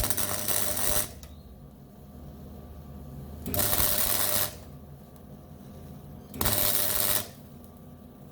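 MIG welding arc crackling in three short pulses of about a second each, about 3 s apart, as a plug weld is built up in bursts, with a low steady hum between them. The pulses are too short: the weld does not fuse well.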